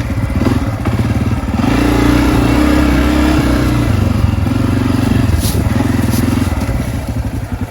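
Honda CRF250F dirt bike's single-cylinder four-stroke engine under way, chugging at low revs, then pulling harder and steadier for a couple of seconds from about a second and a half in, and easing back to a chug near the end.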